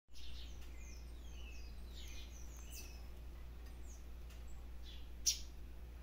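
Several small birds chirping and calling, with quick falling chirps crowding the first three seconds and one sharp, louder call about five seconds in, over a steady low hum.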